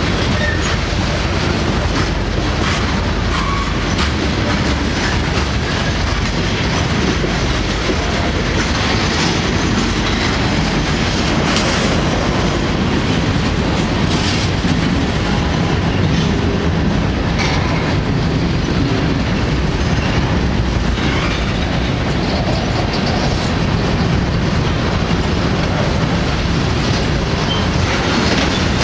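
Railroad cars of a passing train rolling by: a steady rumble with wheels clicking over rail joints and, now and then, a faint brief squeal from the wheels.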